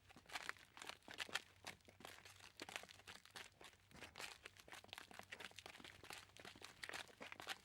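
Faint footsteps crunching on a loose, crackly surface, a dense irregular patter of small crunches, over a faint low hum.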